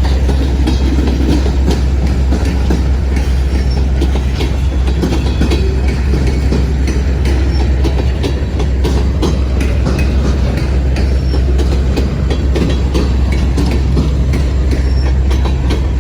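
Freight train cars rolling by, with a steady heavy rumble and frequent sharp clicks from the wheels passing over rail joints.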